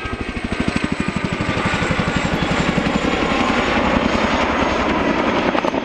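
Tandem-rotor RAF Chinook helicopter flying a display: rapid, even rotor blade thudding over a turbine hiss, growing a little louder.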